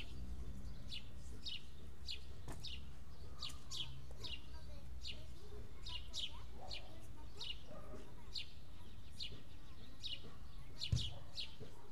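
A small bird chirping over and over, short high falling chirps about two a second, over a low steady rumble. A brief soft thump near the end.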